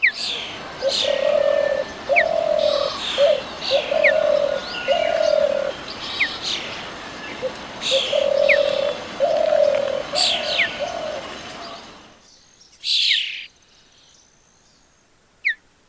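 Birds calling and singing: a low note repeated about once or twice a second, with higher chirps and thin downward whistles over it. The chorus stops suddenly a little after two-thirds of the way in, and then there are two lone chirps.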